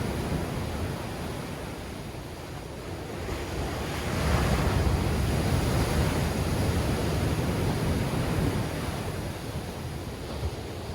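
Sea waves breaking in strong wind, with wind buffeting the microphone as a low rumble. A wave crashes about four seconds in, and its wash then slowly fades.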